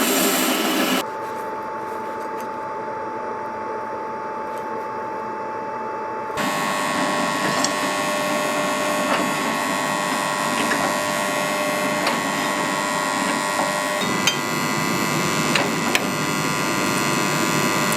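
Steady workshop machine hum with a few whining tones, such as a forge blower or motor running, with a few light metallic taps near the end. The sound changes abruptly about a second in and again about six seconds in.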